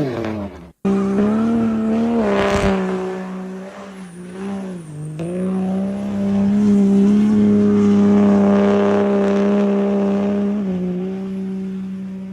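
A diesel pickup truck's engine and exhaust held at high revs, a steady droning note that wavers and dips a few times. The sound cuts out briefly about a second in.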